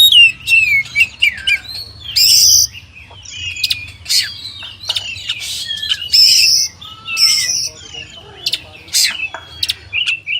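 Oriental magpie-robin (kacer) singing a fast, varied song of whistled slurs mixed with sharp clicks and a few loud buzzy notes.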